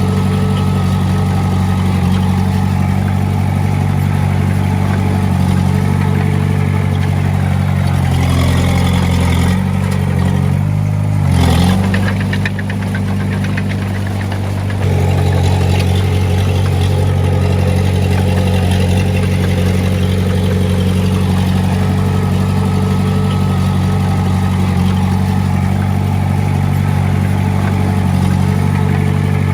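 Diesel engine of heavy earthmoving equipment running steadily. Its pitch shifts between about 8 and 15 seconds in, with a brief loud noise at about 11 seconds.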